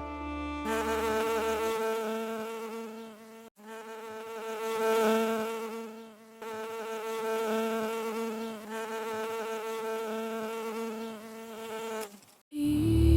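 A bee buzzing in flight: a steady drone that swells and fades, with a brief break about three and a half seconds in, cutting off near the end.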